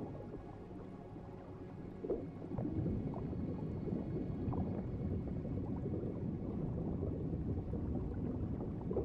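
Underwater ambience: a low, steady rumbling wash of water with small gurgles and bubble pops, growing louder about two and a half seconds in.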